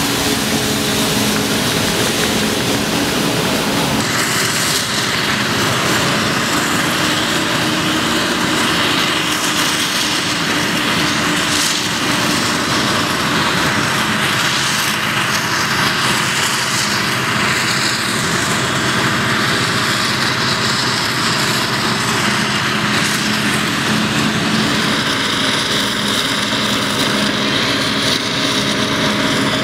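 Forage harvester running under load while chopping maize: a steady heavy engine drone under a broad rushing noise, its character shifting about four seconds in.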